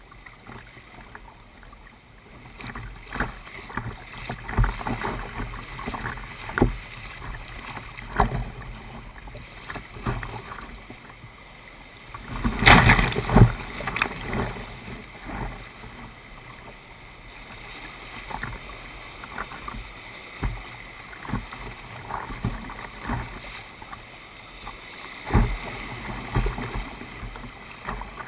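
Kayak paddle strokes in the water, irregular splashes and drips over a low wash of moving water, with a louder rush of noise about halfway through.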